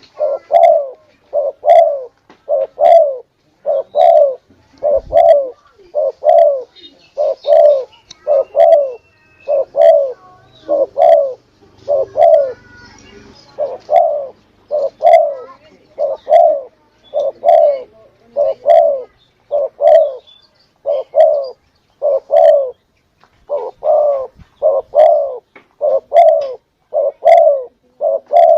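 Spotted dove (tekukur) cooing over and over in short low coos, about one a second, played as a lure call to draw wild doves in.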